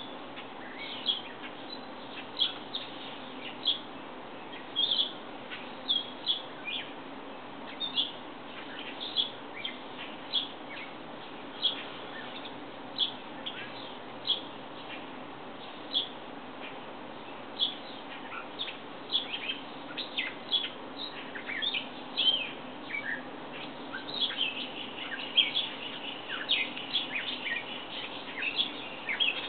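Outdoor birds chirping in short high calls, roughly one every second or so, growing busier near the end with a brief trill over a steady background hiss.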